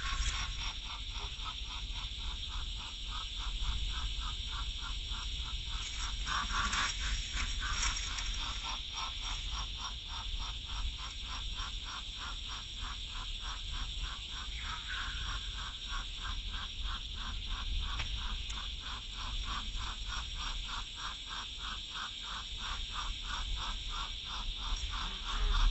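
An animal calling in a rapid, even pulsing trill of about four pulses a second, kept up steadily over a constant high hiss.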